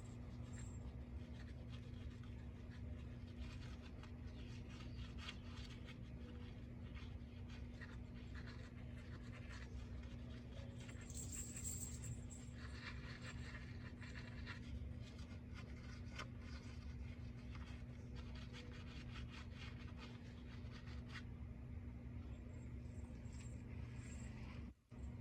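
Household cleaning sounds over a steady low hum: scattered light knocks, taps and rubbing, with a short patch of hiss about halfway through.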